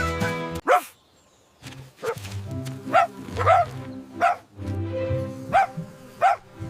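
Cartoon puppy yipping: about seven short, high barks with a rising pitch, over background music that cuts out for a moment about a second in.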